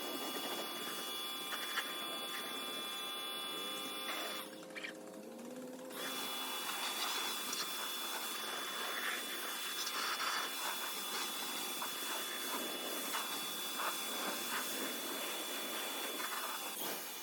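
A small electric motor running with a steady high whine. It drops out briefly about four and a half seconds in, then runs on steadily.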